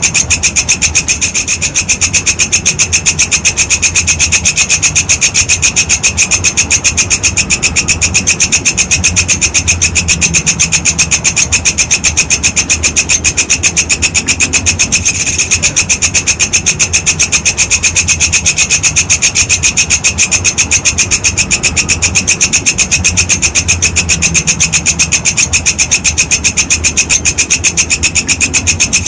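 Walang kecek (kekek) insect calling without a break: a rapid, even train of scraping pulses, high-pitched, with a low hum beneath.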